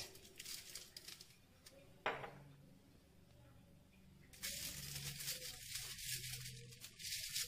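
Faint crunching as a crisp roti pizza slice is bitten and chewed, for about three seconds in the second half, after one short tap a couple of seconds in.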